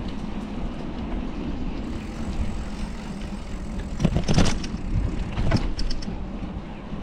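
A bicycle ridden along a city street, with a low rumble of wind and road on the microphone and the bike rattling. A louder burst of clattering comes about four seconds in, and another about a second and a half later, as if over bumps.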